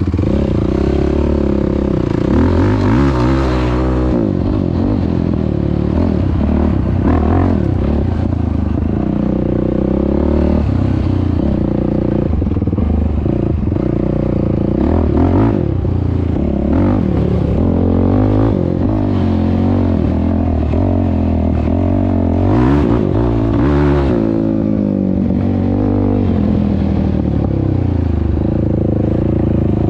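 Yamaha YFZ450R's single-cylinder four-stroke engine running through a Rossier R5 aftermarket exhaust while being ridden, its pitch rising and falling again and again as the throttle is opened and let off. Short clattering and scraping noises come and go along with it.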